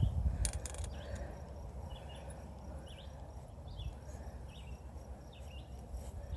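A small bird repeating a short high chirp about once every second or less, over a low, steady outdoor rumble.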